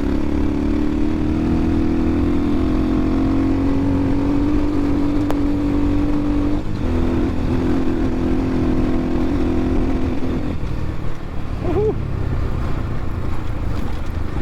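X-Pro Templar X 250 dirt bike's single-cylinder engine pulling steadily under load up a hill, its note sagging slightly, then dropping out briefly about seven seconds in before pulling again.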